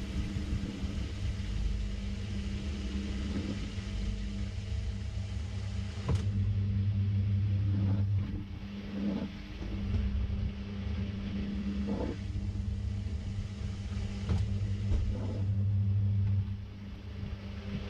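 Samsung 6.5kg top-load washing machine running mid-cycle, heard from inside the tub: a steady low motor hum and rumble, with a few brief knocks and clatters from the load and tub.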